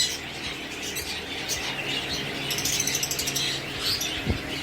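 Small aviary birds chirping and chattering, with a brief rapid flutter of wings a little past halfway.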